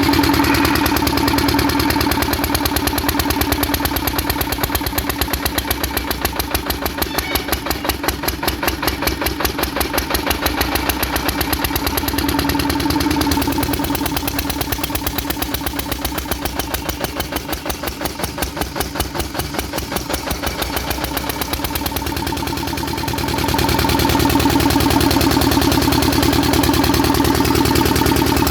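An 8 hp Kirloskar single-cylinder diesel engine running, its firing strokes evenly spaced. It becomes louder again about 23 seconds in.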